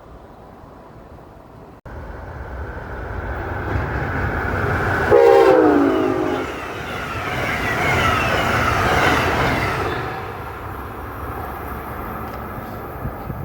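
A train passing at speed sounds one horn blast of about a second and a half, its pitch dropping as it goes by. The rush of the passing train rises, peaks just after the horn, then fades.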